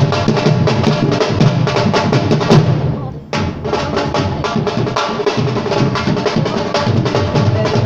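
Live drumming: fast, dense drum strokes and rolls that break off briefly about three seconds in, then carry on.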